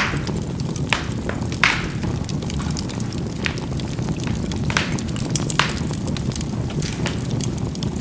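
Burning charcoal in a fireplace crackling, with sharp pops at irregular moments over a steady low rumble of the flames.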